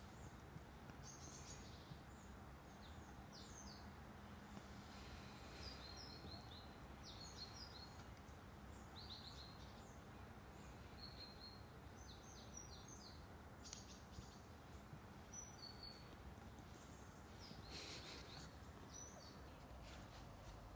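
Near silence with faint small birds chirping: short high chirps in irregular little clusters over a low steady background hum.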